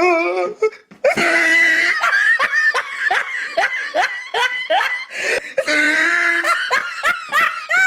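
People laughing hard in quick ha-ha pulses, starting about a second in after a short wavering vocal cry.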